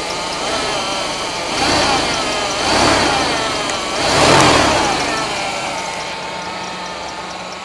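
Ford 302 (5.0 L) V8 with a Motorcraft 2150 two-barrel carburettor, revved by hand at the throttle linkage three times. Each rev rises and falls in pitch, the last is the highest and loudest, and the engine then settles back toward idle.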